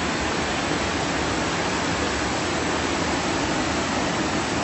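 Waterfall rushing steadily, heard from the top of a falls about 20 meters high.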